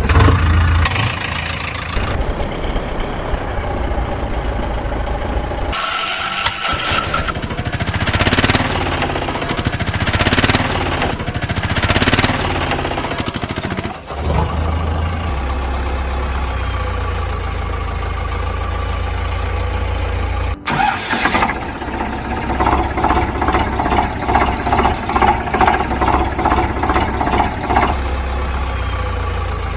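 Vehicle engine starting and running, in several abruptly cut segments, with a steady low engine sound through the second half and a regular pulsing near the end.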